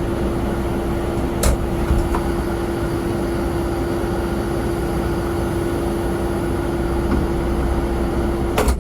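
Steady drone of airport ramp machinery with a constant hum, broken by a sharp click about a second and a half in and another near the end.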